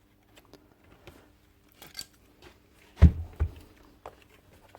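Small clicks and taps of the hammer's parts being handled and fitted back together, with two dull knocks about three seconds in.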